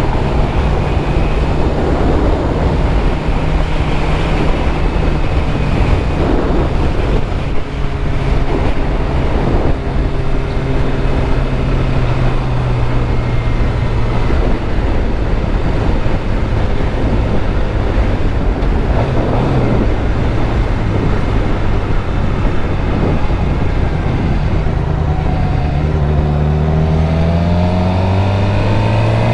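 2013 Suzuki GSX-R600's inline-four engine running at a steady pitch while under way. Near the end, the revs climb as the bike accelerates.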